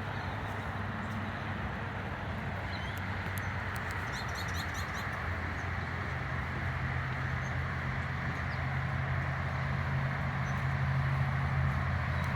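Outdoor ambience: a bird chirps a quick run of short notes about three to five seconds in, over a steady hiss, while a low engine hum grows louder through the second half.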